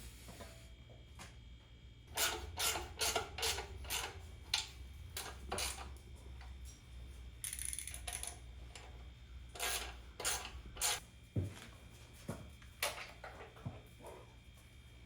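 Hand tools working on engine parts: irregular clusters of short metallic clicks and clanks, busiest in the first few seconds and again toward the end, with a brief hiss in the middle, over a low steady hum.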